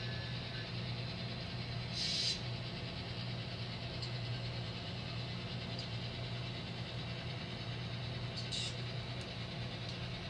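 Sound decoder in an N scale SD60i model diesel locomotive playing a steady idling diesel engine sound, with two short hisses, one about two seconds in and one near the end.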